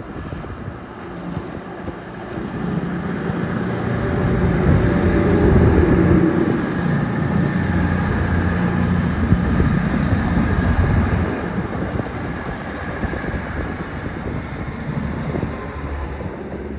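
Diesel train engine running past at close range. Its low drone builds to a peak about five seconds in, then gradually fades.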